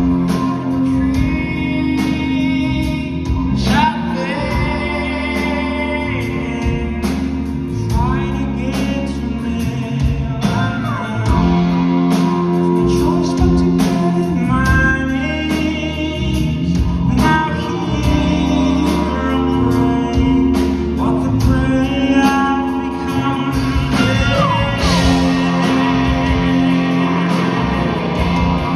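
Live rock band: a male lead vocal sings over electric guitars, bass and drums, with the sound of a large hall.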